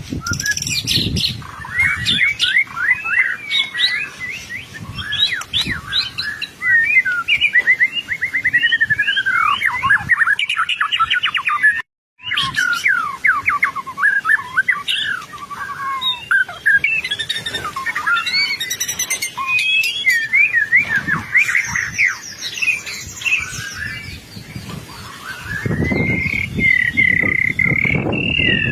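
White-rumped shama (murai batu) singing vigorously: a rapid, unbroken run of varied whistles, trills and chattering phrases. The song breaks off for a split second about twelve seconds in, and a longer held whistle comes near the end.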